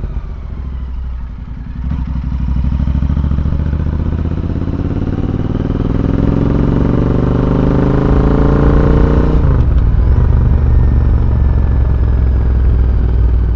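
Royal Enfield Interceptor 650's 648 cc parallel-twin engine through a full-system Red Rooster exhaust, under way. The revs climb steadily for about seven seconds, drop suddenly about nine seconds in, and then the engine runs on steady.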